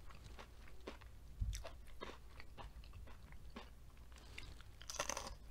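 Close-up chewing of a crunchy breaded, fried asparagus spear: scattered soft crunches and mouth clicks, with a louder crunch about five seconds in.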